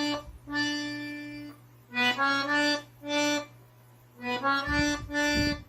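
Accordion playing a slow melody one note at a time, in short phrases of a few notes with brief pauses between them, as in a note-by-note demonstration.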